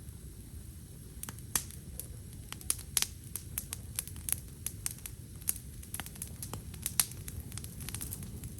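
Wood campfire crackling, with irregular sharp pops and snaps starting about a second in over a low steady background rumble.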